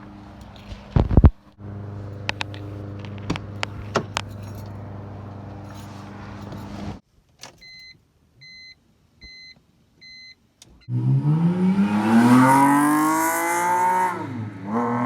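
A car engine idles with a loud thud about a second in and a few sharp clicks. It cuts to near silence broken by four short, evenly spaced electronic beeps, then an engine revs up hard and drops back near the end.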